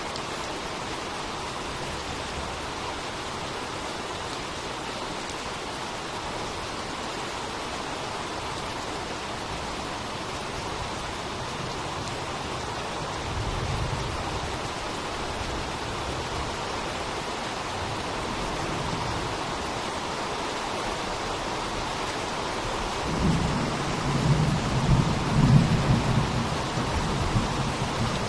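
Steady rain pouring, an even hiss throughout. Low thunder rumbles briefly about halfway through, then rolls in louder near the end.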